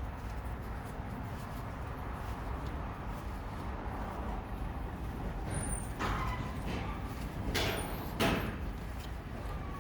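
Matsumoto Kikai MT-3A-2.4 welding positioner running, its electric drive turning the table with a steady low rumble; a few sharp knocks come about six seconds in and again near the end.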